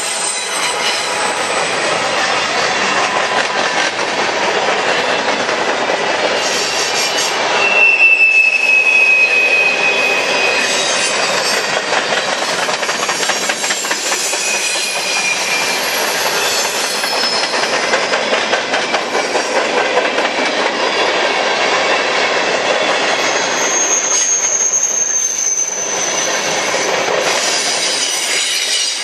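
Freight cars of a mixed freight train rolling past close by: a steady, loud rumble and clatter of wheels on rail, with high-pitched wheel squeal about eight seconds in, briefly again around fourteen seconds, and a higher squeal near the end.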